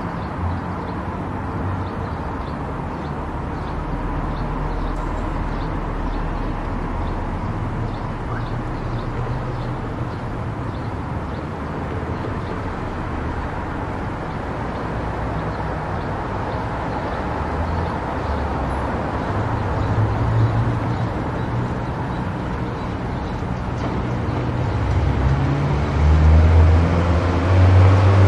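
Car driving on an expressway: steady road and engine noise with a low rumble that grows louder over the last few seconds.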